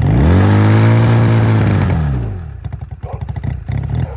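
Old Honda motorcycle engine revved once: the pitch climbs quickly, holds for about a second and a half, then drops back to an uneven idle.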